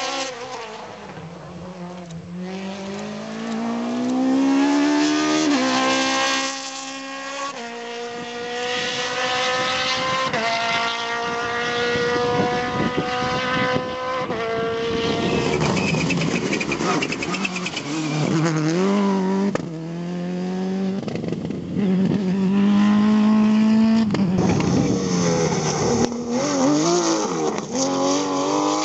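Rally car engine under hard acceleration, its pitch climbing through each gear and falling back sharply at several gear changes, with a few quick wavering blips of the throttle in between.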